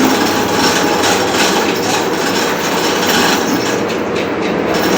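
Ship's diesel engine running loudly, a steady mechanical din with a fast, even clatter through it.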